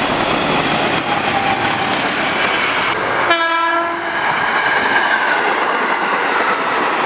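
A diesel-locomotive-hauled train passing close at speed: a steady rush of wheel and track noise. About three seconds in the sound cuts to a short train horn blast, then a KRL electric commuter train passing with the same rush and a faint high whine.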